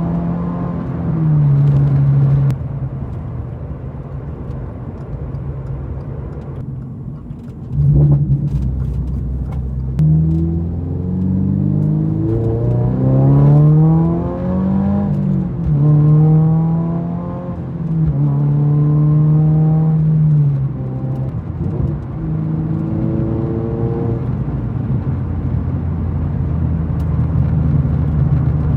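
Toyota GR86's 2.4-litre flat-four engine with an aftermarket exhaust under way on the road. It pulls in several bursts, the engine pitch rising and then dropping at each gear change, and settles into a steady drone near the end.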